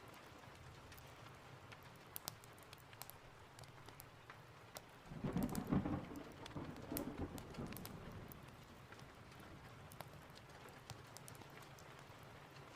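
Steady rain with scattered sharp ticks, and a clap of thunder about five seconds in that rumbles low and fades away over roughly three seconds.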